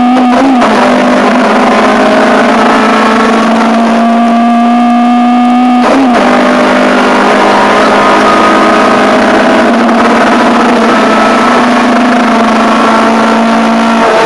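Ford Fiesta 1.4 Zetec four-cylinder race engine heard from inside the cockpit, running hard at high revs in a steady note. The note dips briefly about six seconds in and again at the end, then comes straight back up.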